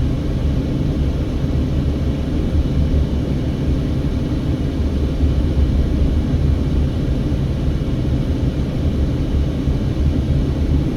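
Steady low drone of a car driving, engine and tyre noise heard from inside the cabin.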